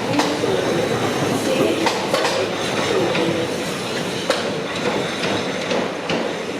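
Train wheels rolling slowly over the station track, clicking at irregular intervals as they cross rail joints and points, over a steady rumble.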